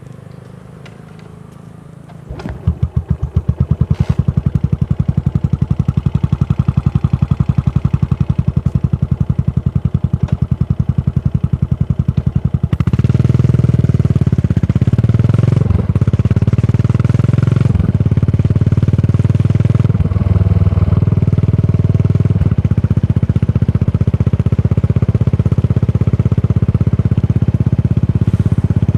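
Yamaha SR400's air-cooled single-cylinder engine, breathing through a Goods tapered cone slip-on muffler, starts about two seconds in and idles with a steady, even exhaust beat. About halfway through it gets louder as the bike rides off, with brief dips in the note every few seconds.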